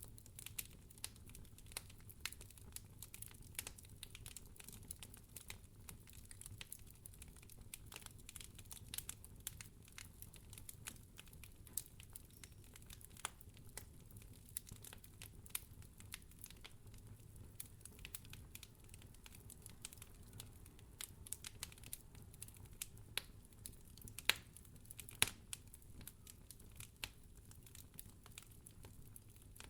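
Wood fire crackling in a fireplace: a dense, irregular run of small sharp crackles and pops over a low steady rumble, with two louder pops near the end.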